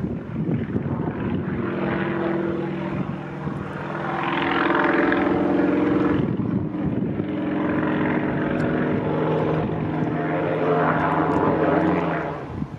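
Propeller-driven light aircraft engine running steadily, its level swelling twice as the sound builds and eases.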